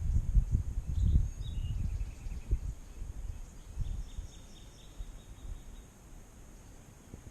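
Irregular low rumbling on the microphone, strongest for the first two or three seconds and then dying away, with faint bird chirps above it.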